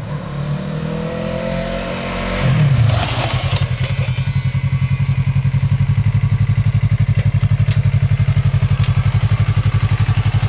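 Yamaha YZF-R3 321 cc parallel-twin motorcycle engine running close by. Its sound shifts over the first few seconds, and there is a louder burst about three seconds in. It then settles into a steady, evenly pulsing idle as the bike stands at the end of a brake-test stop.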